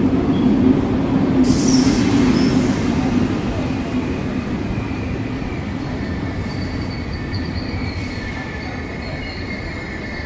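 Passenger train moving along the platform: a heavy low rumble that eases off, with a brief hiss about a second and a half in. From about six seconds in come high, thin, steady squeals of wheels or brakes on the rails as it slows.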